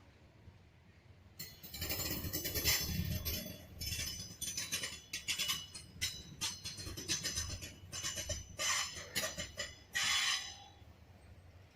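Train wheels on rail: irregular bursts of metallic squealing and clinking over a low rumble, starting about a second and a half in and dying away near the end.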